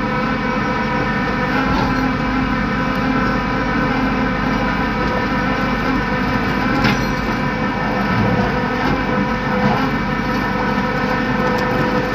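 Tow truck's engine running steadily while it drives the winch, with one sharp clank about seven seconds in.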